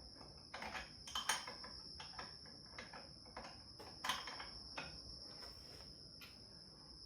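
Irregular, scattered clicks and taps of a wrench working a pulley removal tool on a power steering pump pulley, a dozen or so light metallic ticks spread unevenly over several seconds.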